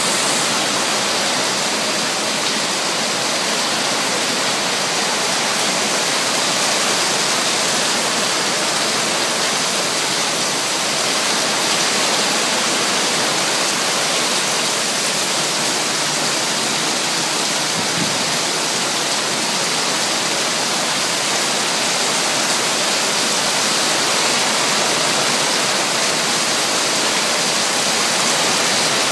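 Heavy rain falling steadily, with water pouring in streams off the edge of a patio roof.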